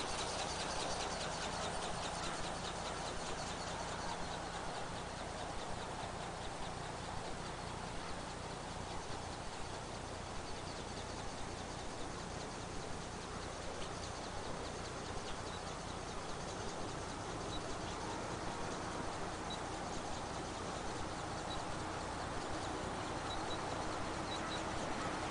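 Radio-controlled flapping-wing bird (ornithopter) running, its wing-flapping drive giving a fast, faint rhythmic clicking over a steady rushing noise; the clicking thins to scattered ticks after the first several seconds.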